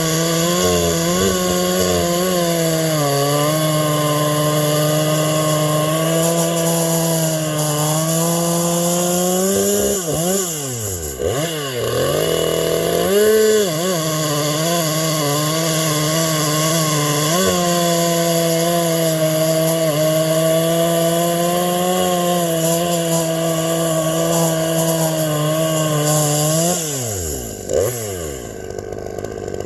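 Two-stroke chainsaw running at full throttle through long cuts in wood, holding a steady pitch. About ten seconds in, the engine note drops and swoops as one cut ends, briefly rises higher, then settles back into a steady pitch for another long cut. Near the end the engine drops away sharply.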